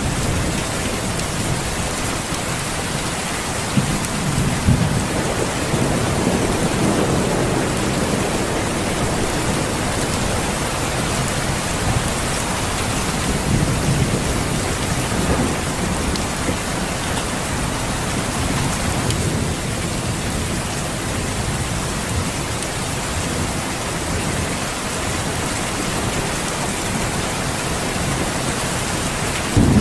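Steady rain falling, with low thunder rumbling and swelling a couple of times.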